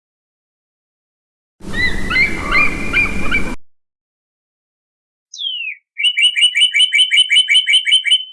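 Two separate bird-call sound-effect clips. First, about two seconds of short chirping notes over a low background rumble. Then, after a pause, one whistle falling in pitch, followed by a fast trill of repeated chirps, about six a second.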